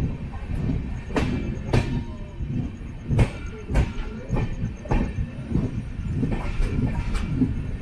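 Passenger express train running on the rails: a steady rumble with sharp wheel clicks over the rail joints, several coming in pairs about half a second apart.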